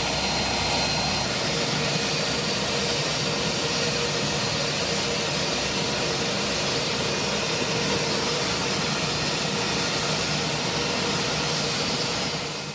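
Jet engines of an Airbus A321 airliner running steadily: a continuous dense engine noise with a thin high whine over it, fading out near the end.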